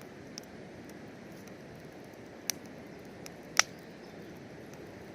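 Wood fire crackling in a small bucket fire pit: a steady hiss with three sharp pops, the loudest about three and a half seconds in.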